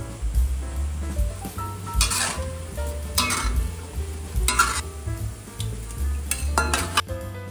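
Ham sui kok dumplings frying in hot oil, sizzling, with four short scraping strokes of a utensil turning them in the pan, over background jazz music with a bass line.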